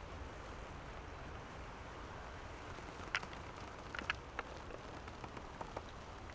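A few short, sharp clicks and creaks, scattered through the second half, over a steady low hiss.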